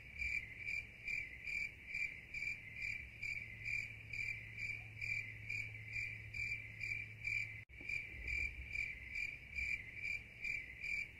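Crickets chirping in a steady, even rhythm of about three high-pitched chirps a second.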